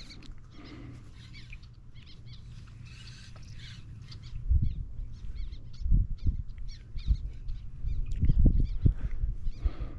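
Small birds chirping repeatedly in short, high calls. From about four and a half seconds in, low thumps and rumbles come through, loudest around eight to nine seconds.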